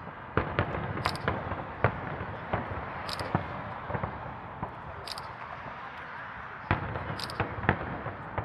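Fireworks shells bursting overhead: sharp bangs and pops at irregular intervals, several in some seconds, over a constant noisy background.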